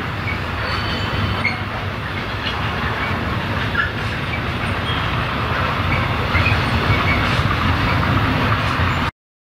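Freight wagons loaded with lorry trailers rolling past at low speed: a steady rumble of wheels on rail with scattered light squeals and clicks. The sound cuts off abruptly just before the end.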